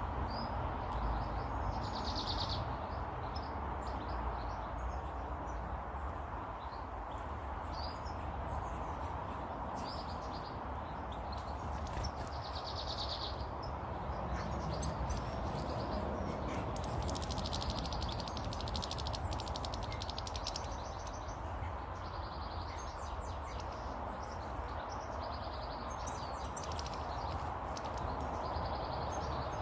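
Small garden birds chirping and twittering in short bursts every few seconds, over a steady background rumble.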